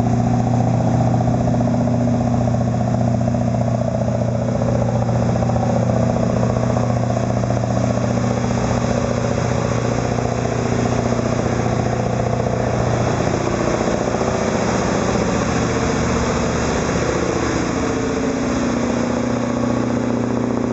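Steady drone of a hammock riverboat's diesel engine running under way: a deep, even hum with a higher steady tone above it and no change in speed.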